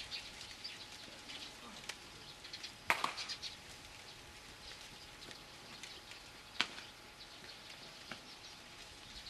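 Outdoor ambience with short bird-like chirps running through it, broken by a few sharp knocks. The loudest knock comes about three seconds in and another comes near the end.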